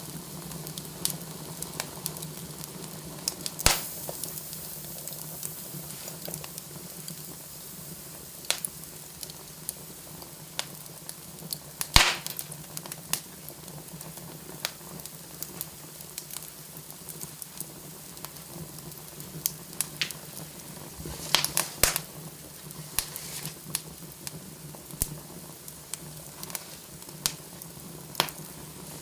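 Wood fire in a fireplace crackling, with irregular sharp pops and snaps over a soft steady hiss. Louder snaps come about 4 s, 12 s and 22 s in. A steady low hum runs underneath.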